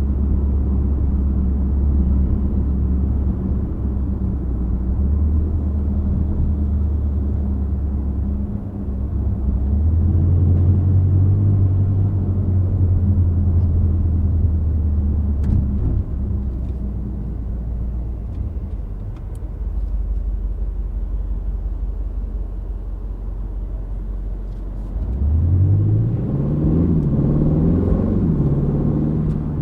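2025 Aston Martin Vantage's 4.0-litre twin-turbo V8 running at low revs, its note stepping up and getting louder about ten seconds in and dropping back about six seconds later. Near the end it accelerates, the pitch rising in steps as it shifts up through the gears.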